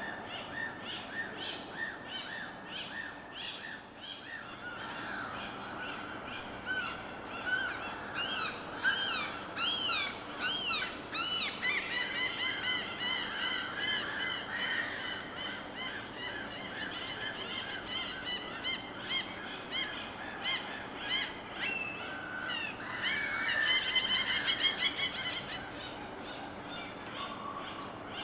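Birds calling over a steady background hiss: a run of repeated arched chirps, then a fast, long trill from about twelve seconds in, and a louder burst of calls near the end.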